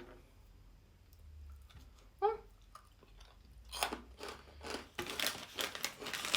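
Crispy dried shiitake mushroom snacks being bitten and crunched in the mouth, a dense run of crackling crunches starting about four seconds in. A brief voice sound comes a little before it.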